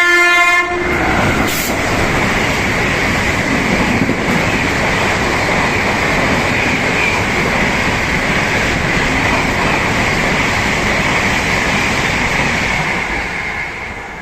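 Express train passing through a station at speed without stopping. Its horn sounds briefly at the start, then there is a loud, steady rush of wheels and carriages on the rails with a high hiss that runs on until it cuts off at the end.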